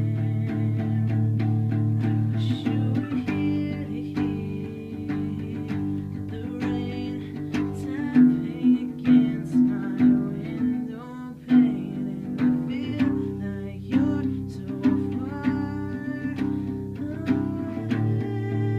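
Guitar music: plucked notes over sustained low notes, with a run of sharper, accented notes about halfway through.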